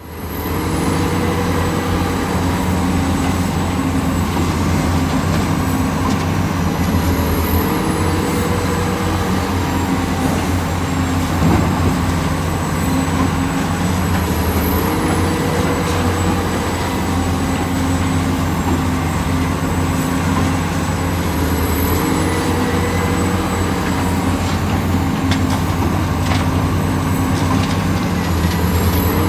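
Heavy diesel earthmoving machinery, an excavator working, with the engine running steadily under load. A short rising whine recurs every few seconds.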